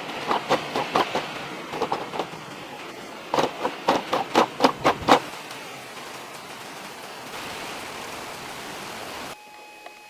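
Runs of sharp knocks, about three to four a second, each with a short ringing pitch, over a steady hiss that cuts off abruptly near the end. In this woodworking build they fit a tool striking wood.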